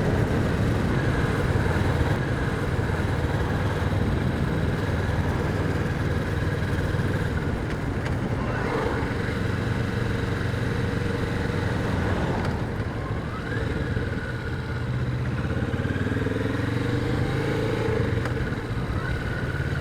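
Kawasaki Vulcan 650's parallel-twin engine running on the move, under steady road and wind noise. The engine note rises a few times as the bike pulls away and accelerates, and eases off briefly about two thirds of the way through.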